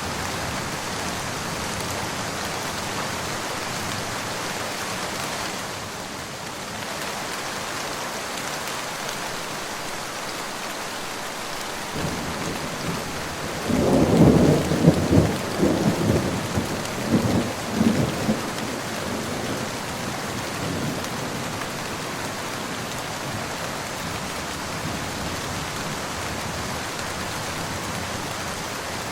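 Steady rain falling, with a roll of thunder about halfway through that builds, rumbles loudest in several surges for a few seconds, then dies away.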